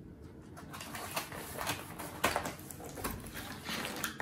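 Packaging being handled: rustling of the cardboard box and packing foam with scattered light clicks and taps.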